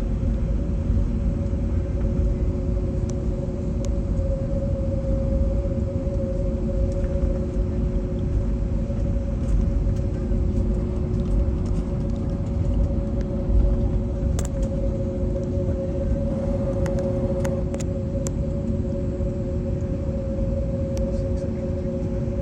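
Cabin noise of an Airbus A321neo with its CFM LEAP-1A engines running while taxiing: a steady low rumble with two steady hums and no rise in pitch. A few light clicks come about two-thirds of the way through.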